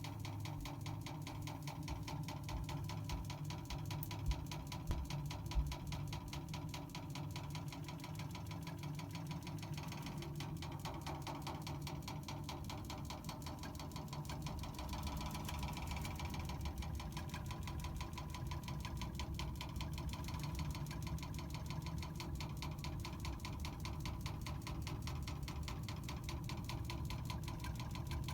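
Water meter knocking with a rapid, even, mechanical beat that keeps going without a break. Three sharper clicks stand out about four to six seconds in.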